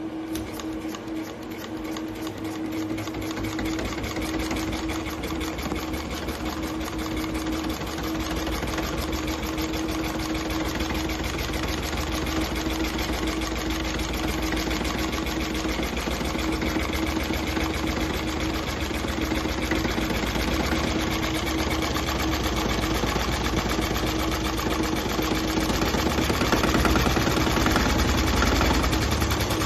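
RETROL D16 scale model diesel engine running on test with a rapid, even chatter of firing strokes. It grows louder over the first few seconds and swells slightly again near the end.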